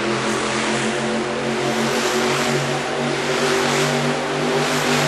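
Monster truck's supercharged V8 engine running hard at high revs, its pitch wavering up and down.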